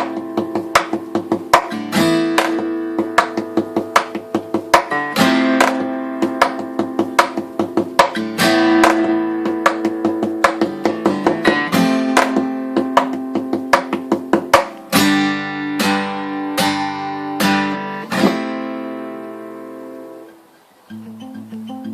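Tanglewood acoustic guitar played fingerstyle: quick picked notes over ringing chords. Near the end a few strong chords ring out and fade away, then soft picking starts again.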